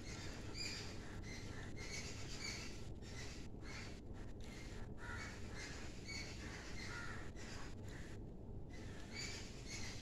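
Small birds calling: a string of short, high chirps repeating every half second or so, over a steady low background rumble.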